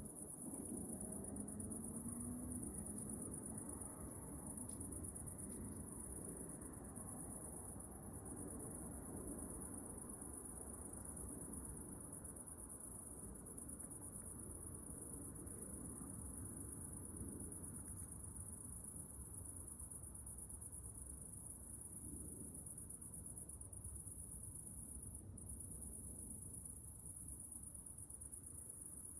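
Steady, high-pitched chorus of night insects trilling without pause, over a low, steady rumble.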